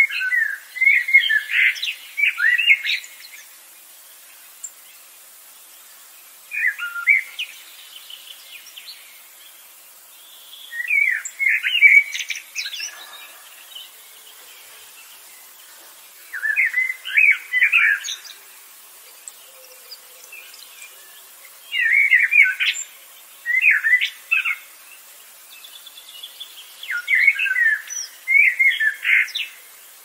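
A bird singing six short phrases of quick chirping notes, each one to three seconds long and a few seconds apart.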